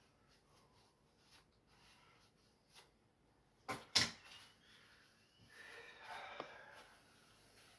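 Faint handling noises: two sharp clicks close together about halfway through, then a second or so of rustling.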